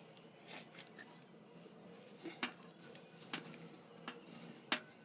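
Scattered light clicks and knocks of hand work, about six spread over a few seconds, over a low steady hum.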